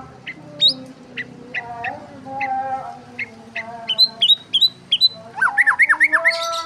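Birds chirping: a string of short, sharp chirps and squawks, with quickly repeated high notes partway through and a rapid run of sweeping chirps near the end.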